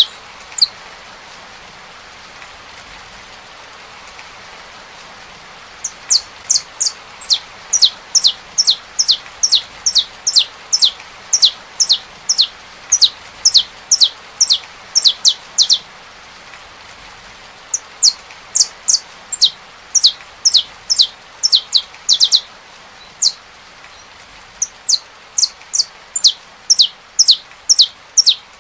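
Saffron finch singing: quick runs of sharp, downward-sweeping notes in three bursts with short pauses, starting about six seconds in. Steady rain hiss runs underneath, heard alone before the song starts.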